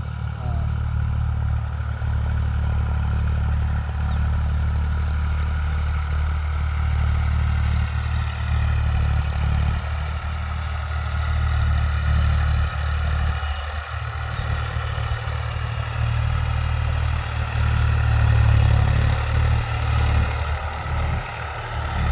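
Tractor engine running steadily at low revs with a constant low drone.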